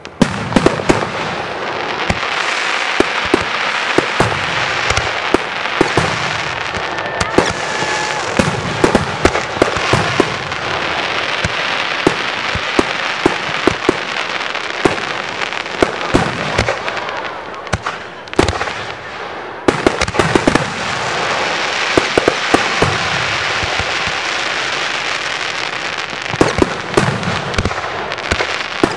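Display fireworks in a continuous barrage: many sharp shell bursts over a dense crackling hiss. It eases briefly about eighteen seconds in, then builds again.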